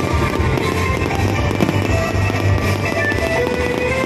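Aerial fireworks going off in a dense, continuous barrage of crackles and bangs over a steady low rumble, with music playing at the same time.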